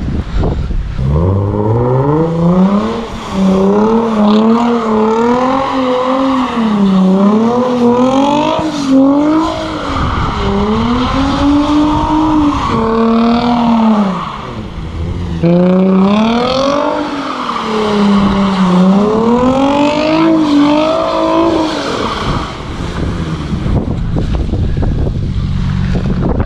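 Nissan 350Z's 3.5-litre V6 revving hard, its pitch climbing and swinging up and down as the throttle is worked through drift attempts, in two runs with a short dip in between. The rear is not kicking out into a slide.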